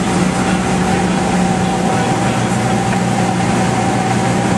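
Cessna 172's piston engine and propeller droning steadily at cruise, heard from inside the cockpit.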